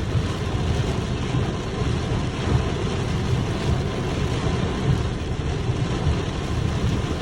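Heavy rain pouring down in a storm, a steady dense hiss, with strong wind gusting and rumbling on the microphone.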